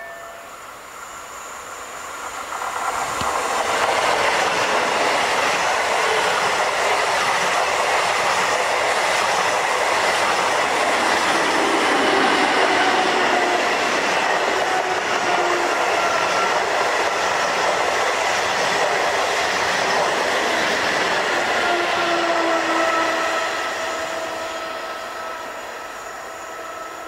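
Two coupled Pesa Dart ED161 electric multiple units passing at speed: the rush of wheels on rail builds up, holds loud with a steady whine over it, then fades as the train runs away near the end.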